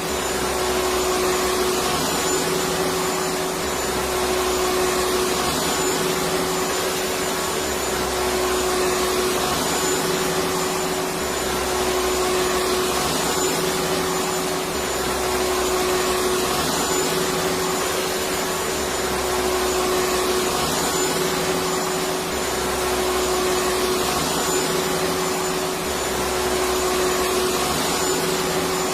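Vacuum cleaner running steadily with a constant motor whine and airflow noise, and a low throb that swells and fades about every four seconds.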